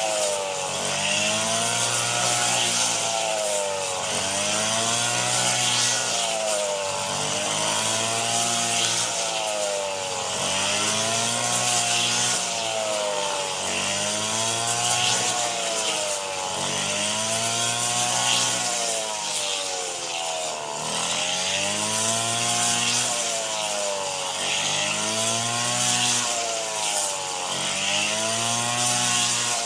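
Small two-stroke engine of a handheld rice cutter (brush cutter) running at high revs, its pitch dipping and recovering in a regular cycle about every two seconds as the blade swings through rice stalks under load.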